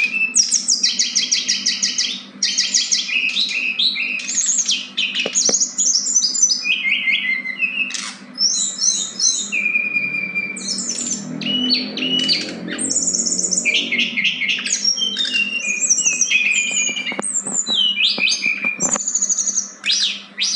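Two small songbirds, a male and a female, singing against each other: dense, high-pitched runs of fast-repeated chirps and quick trills, one phrase after another. A steady low hum sits underneath.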